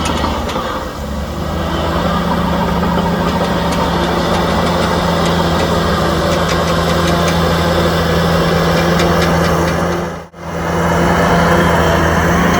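Heavy diesel engine of earthmoving equipment running steadily under load, with a brief gap about ten seconds in.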